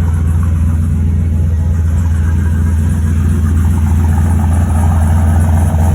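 Car engine idling with a steady, deep rumble.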